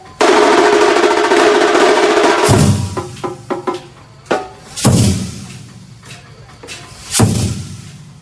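Kerala temple festival percussion ensemble playing. A dense, loud drum roll with ringing tones over it lasts about two and a half seconds. Scattered strokes and two heavy hits about two seconds apart follow.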